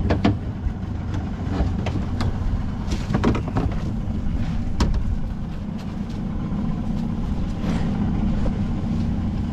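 Low steady rumble of a dinghy's idling outboard motor, with several sharp knocks and rattles from a crab pot being handled.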